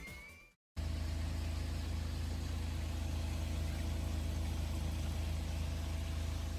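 Background music fades out, and after a brief silence a steady low engine hum starts and runs on evenly.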